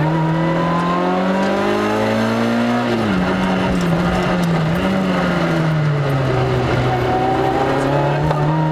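Rally car's engine heard onboard while driving a stage. It revs up under acceleration for about three seconds, drops sharply in pitch, then runs at varying speed before rising again near the end.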